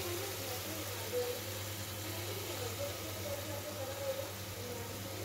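Onion-tomato masala sizzling in hot oil in a pan, a steady frying hiss, with a steady low hum underneath.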